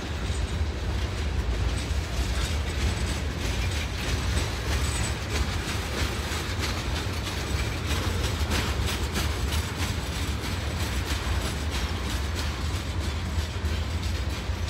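Freight cars of a manifest train rolling past on the rails: a steady low rumble of wheels on track with a continual run of clicks and metallic clanks.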